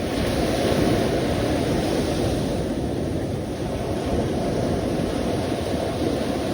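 Sea surf: waves washing in a steady, deep rushing noise, a little louder about a second in.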